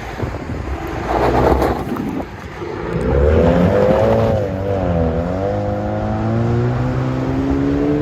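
Chevy Camaro 2.0-litre turbocharged four-cylinder running through an aftermarket exhaust, loud. A rush of noise gives way about three seconds in to a steady engine drone whose pitch dips and climbs again around the middle.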